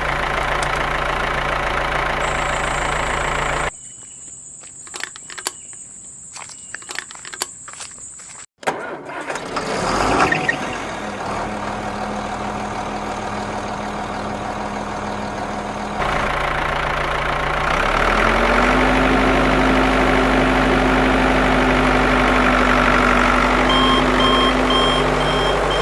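An engine running steadily in a low, even hum. It drops out for a few seconds around 4 s in, leaving a quieter stretch with scattered clicks and knocks, then returns. About 18 s in it steps up to a louder, slightly higher steady note.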